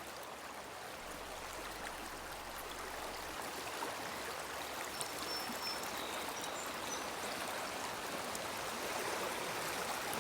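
River water flowing over rocks: a steady rushing that grows gradually a little louder.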